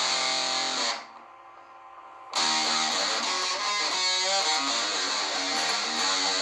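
Electric guitar played through a DOD FX69 Grunge distortion pedal, a heavily distorted riff. It breaks off about a second in and comes back in a second and a half later.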